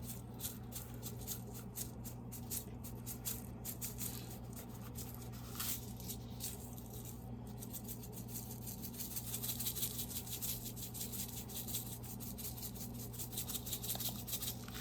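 Seasoning being shaken from a shaker over raw chicken breast and worked in by hand: many quick, light rattles and rustles, busiest in the second half, over a steady low hum.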